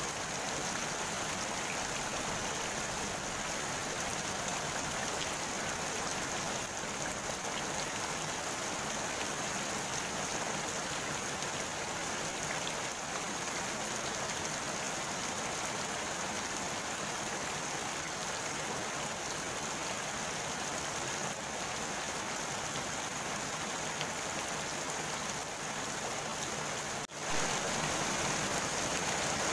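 Steady rain falling on the surface of a pond, an even hiss of countless drops. Near the end it breaks off for a moment and comes back slightly louder.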